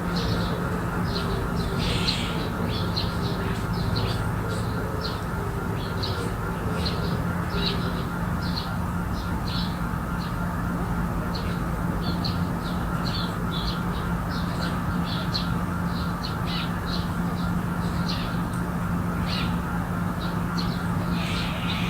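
Garden birds calling: a steady run of short, high chirps with a couple of louder, harsher calls. A steady low hum runs underneath.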